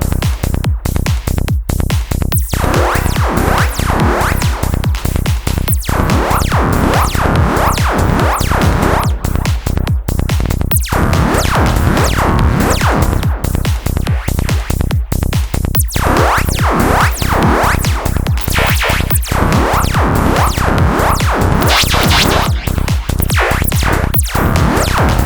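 Psytrance music with a fast, steady kick-and-bass pulse under sweeping, twisted analog modular synth effects.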